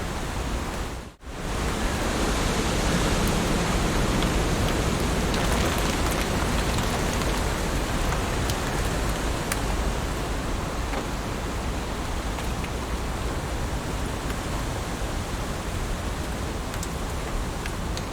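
Heavy rain falling steadily: a dense hiss with scattered ticks of single drops. The sound cuts out for a moment about a second in, then carries on.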